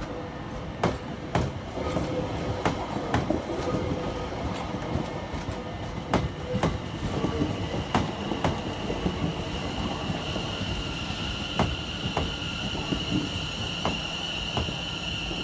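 A train running on the rails, with irregular clicks and knocks from the wheels over the track, and a high steady wheel squeal that builds from about halfway through.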